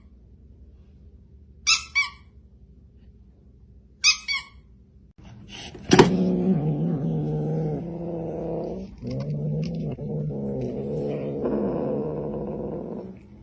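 A cat: two pairs of short, high squeaks, then from about six seconds in a long, low, drawn-out yowl that shifts slowly in pitch, with a few breaks, and stops just before the end.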